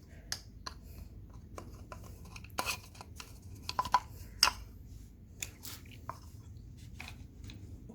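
Irregular clicks, taps and short scrapes of hands and a small tool working at the oil filter housing cap, prying at the old O-rings, with a few sharper knocks in the middle.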